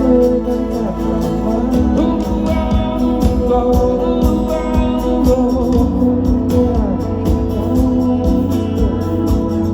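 Live band playing an instrumental passage of a pop ballad: guitar over steady, sustained keyboard or organ chords, with some singing faintly mixed in.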